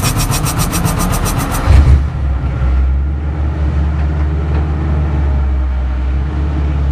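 Camaro race car's engine being cranked by its starter with a fast, even rattle, catching with a loud burst a little under two seconds in and settling to a steady low idle.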